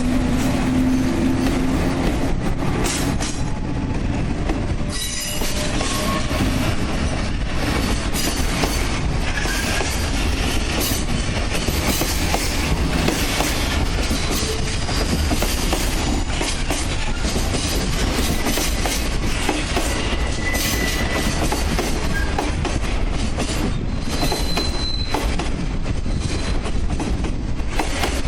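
A freight train of Koki 104/106 container wagons rolling past at low speed, its wheels clacking over rail joints with brief high wheel squeals.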